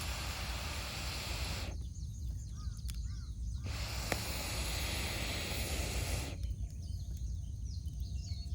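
Wood campfire burning with a steady hiss, and one sharp crackle about four seconds in. Faint bird calls in the background.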